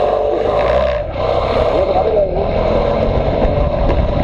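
Motorcycle running under way, its engine drone mixed with heavy wind rumble on the microphone.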